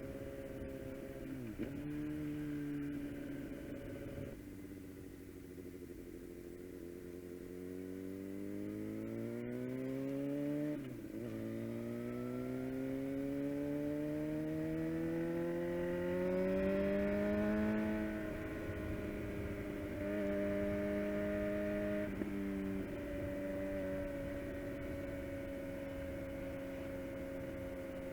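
Suzuki GSX-R750's inline-four engine through a full Yoshimura exhaust, heard onboard while riding. The revs climb steadily under acceleration, with a quick dip at gear changes about two and eleven seconds in, then run more evenly at a near-constant speed in the later part.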